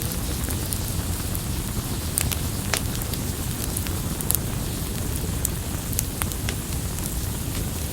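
Wood campfire burning: a steady low rumble of flames with scattered sharp crackles and pops from the burning wood, a handful of them louder than the rest.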